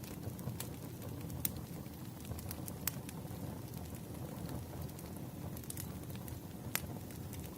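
Wood fire crackling: irregular sharp pops and snaps, several of them loud, over a steady low rumble.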